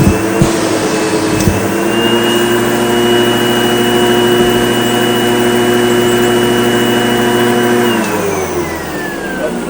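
SEBO Automatic X4 upright vacuum cleaner running steadily, with a few sharp clicks in the first second and a half and its motor pitch stepping up about two seconds in; after about eight seconds the motor winds down with a falling whine. The hose is clogged.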